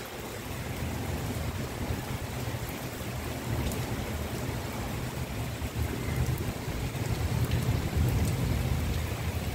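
Heavy rain falling on rooftops: a steady hiss with scattered drop ticks over a low, uneven rumble.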